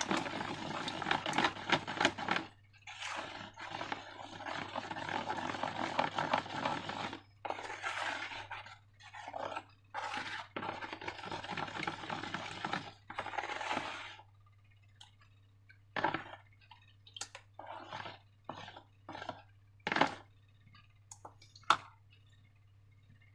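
Slime being worked by hand and with a utensil in a container: long stretches of wet scraping and squishing for the first dozen seconds or so, then a series of short, separate squishes and clicks.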